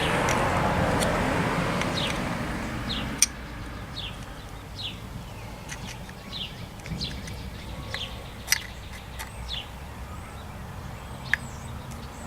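A small bird chirping over and over in short falling notes, over a steady low rumble, with a few sharp clicks as the carburetor's screws are tightened. A rushing noise fades out in the first three seconds.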